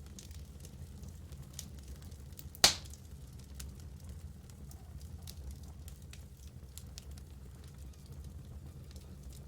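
Wood fire in a fireplace crackling: scattered small snaps over a low steady rumble, with one loud sharp pop about a third of the way in.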